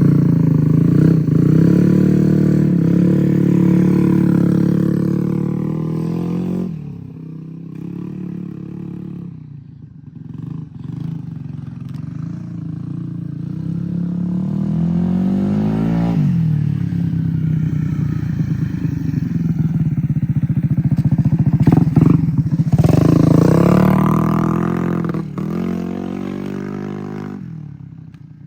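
Moped with a newly swapped-in engine being ridden around, running and revving. Its pitch drops and the sound fades as it rides off, then swells again as it comes back past. The engine is running well.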